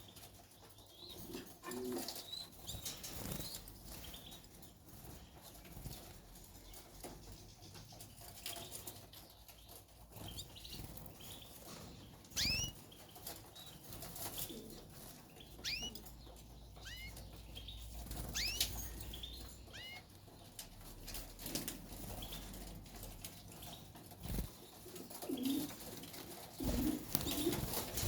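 Caged canaries giving short, sharply rising chirps, several in quick succession around the middle, amid wing flutters. A few low notes come near the start and near the end.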